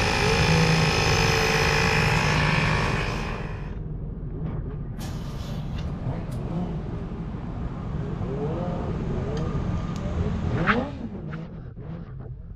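Motorcycle engines running, loud and steady for about the first three seconds, then quieter, with a couple of rising revs near the end.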